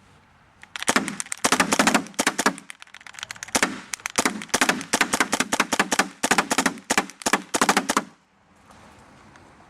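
Electronic paintball marker firing rapid strings of shots, several bursts with short pauses between them, stopping about eight seconds in.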